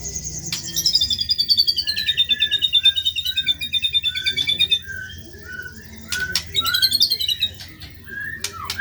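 White-rumped shama (murai batu) singing. A long, fast trill slides down in pitch over the first few seconds over a row of short repeated whistles, then come scratchy bursts of notes, a few sharp clicks and quick up-and-down whistles near the end.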